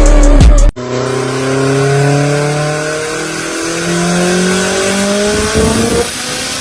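A sports car accelerating hard, its engine pitch climbing steadily, dropping once about halfway through at an upshift, then climbing again before the driver lifts off near the end. Music with a heavy bass beat plays for the first moment and cuts off abruptly.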